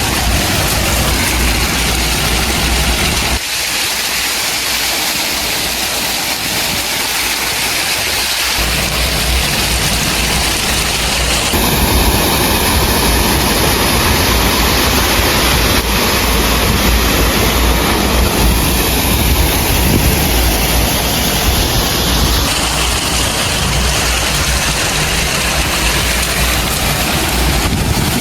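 Heavy diesel machinery running at a work site, a loud steady engine rumble mixed with a noisy rush. The low rumble drops away for a few seconds a few seconds in, then returns.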